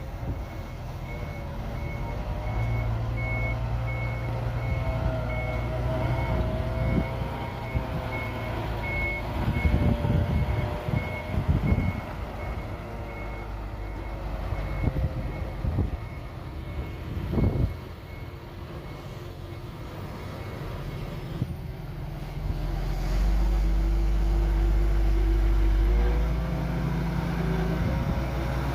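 Reversing alarm beeping steadily over running heavy diesel earthmoving machinery, with a few metallic clanks. The beeping stops about three-quarters of the way through, and an engine grows louder near the end.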